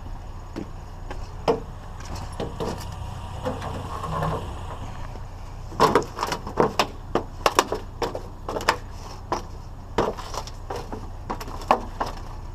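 Scrap being handled by hand: a run of sharp knocks and clatters, densest in the second half, over a steady low rumble.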